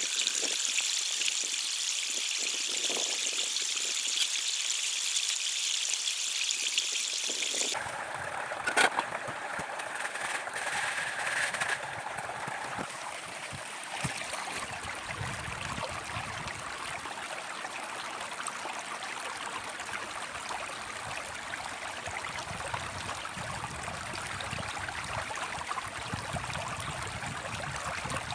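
Running water, a steady rushing hiss; about eight seconds in the sound changes abruptly from a bright, high hiss to a fuller, lower rush, with a couple of short knocks soon after.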